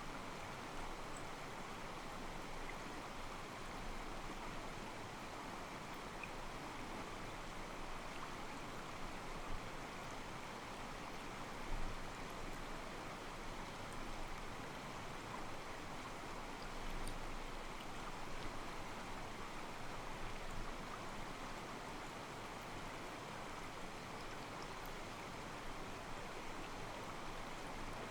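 Small mountain stream, water steadily sloshing and trickling over rocks.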